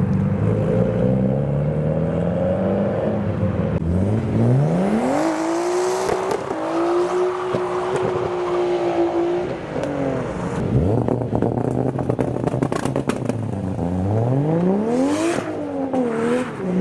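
Modified Japanese car engines revving as cars pull away. About four seconds in, the pitch climbs steeply and holds high for several seconds before dropping. A rapid run of sharp crackles follows. The engine note then rises again twice near the end.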